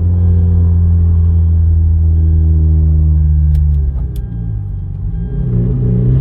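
A Hyundai Genesis Coupe's 2.0-litre turbocharged four-cylinder engine, running with its blow-off valve feed line pinched shut, pulls at steady revs. It lets off about four seconds in, with a couple of short clicks around the lift-off, then builds revs again near the end.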